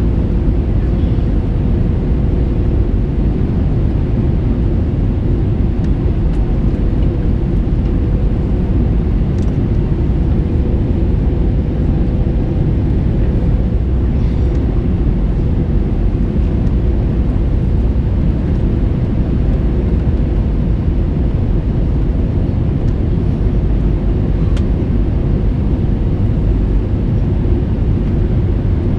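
Steady cabin noise of an Airbus A321 in flight: a loud, even rumble of airflow and its IAE V2500 engines, with a steady hum running through it.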